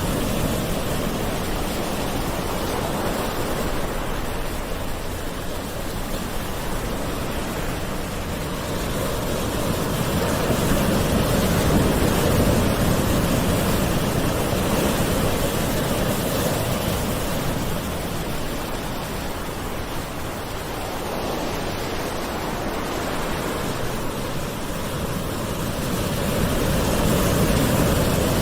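Gentle ocean waves washing ashore: a continuous rush of surf that slowly swells and eases, growing louder about ten seconds in and again near the end.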